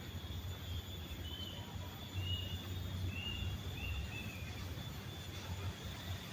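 Outdoor ambience: a low steady rumble and a thin steady high insect whine, with a small bird giving about five short chirps in the first part.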